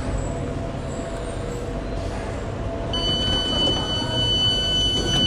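Tyne & Wear Metro train running with a steady low rumble heard from inside, joined about three seconds in by a steady high-pitched tone that holds to the end.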